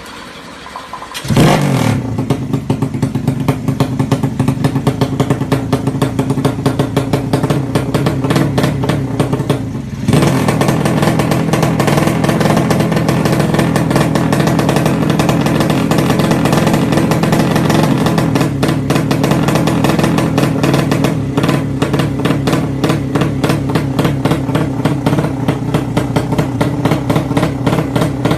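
Yamaha Jupiter 200cc drag bike's single-cylinder four-stroke engine revved up sharply from idle about a second in and held high, dropping back briefly about ten seconds in before picking up again.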